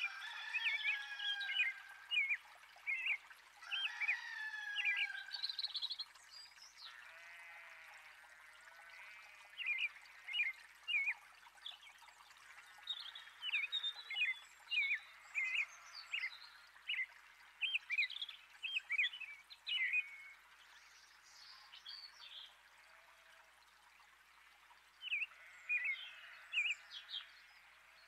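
Wild birds calling: bursts of short, sharp chirps repeated in quick runs, with a few falling whistled glides in the first few seconds.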